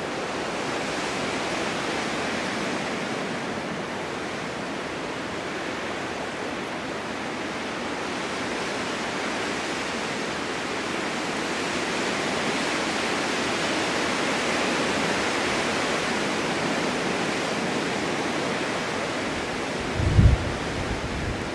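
Snowstorm wind blowing steadily, rising and falling in slow swells, with a short low buffet of wind on the microphone near the end.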